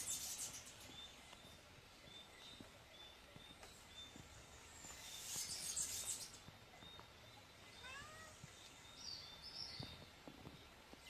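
Faint tropical forest ambience with birds calling: a short high note repeating about twice a second, two hissing swells of high sound, and one slurred, meow-like call about eight seconds in.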